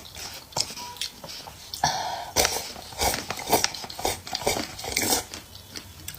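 Eating utensils clicking, knocking and scraping against dishes in an irregular run of short sharp sounds, with a longer scrape about two seconds in.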